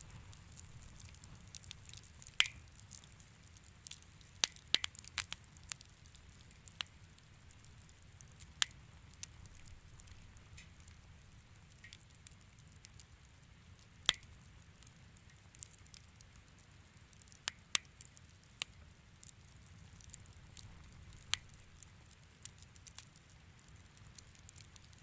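Wood fire crackling in a fireplace: sharp pops and snaps at irregular intervals over a low, steady rumble of flames.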